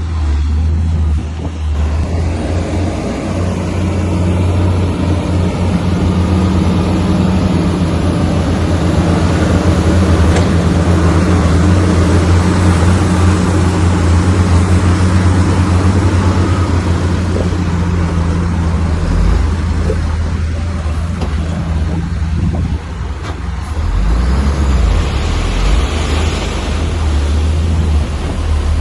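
Heavy diesel engine of earthmoving machinery (bulldozer or dump truck) running loud and steady, going rougher and uneven about two-thirds of the way in, with a short hiss near the end.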